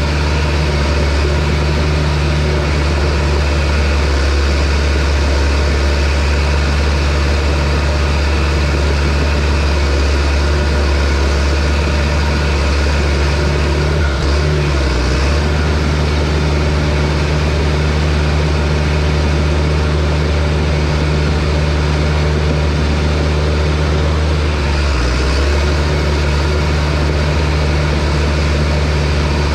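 Heavy logging equipment's diesel engine running steadily and loudly, its low note dipping briefly about halfway through and again near the end as the load changes.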